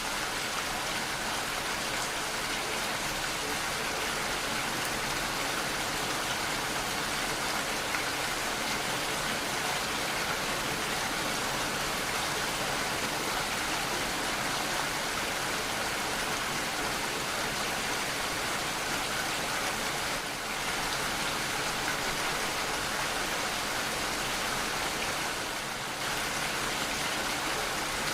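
Steady rainfall: an even, continuous hiss of rain with no thunder.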